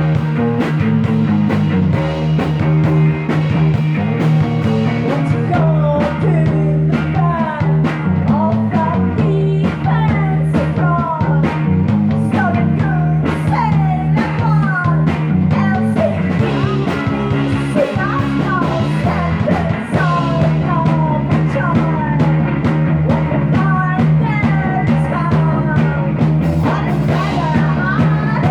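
Band playing a psychedelic rock song: a steady beat, a sustained low drone underneath, and a lead part of sliding, bending notes.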